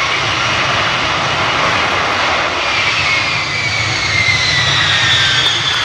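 Lockheed Martin F-35B Lightning II's jet engine running loud, a steady roar carrying a high whine that slowly falls in pitch.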